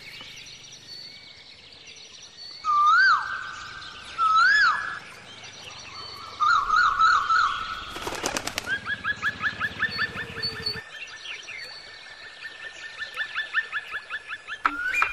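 Birds calling: two loud whistles that rise and fall, then a warbling trill, and from about halfway a long run of short repeated notes, roughly four a second. A brief rattling burst comes just before the repeated notes start.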